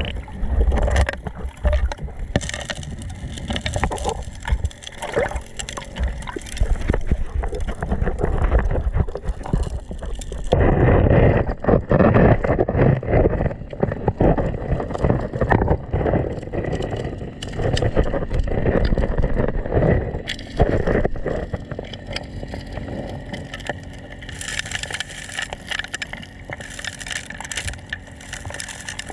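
Water gurgling and churning in uneven surges, with a steady motor hum underneath.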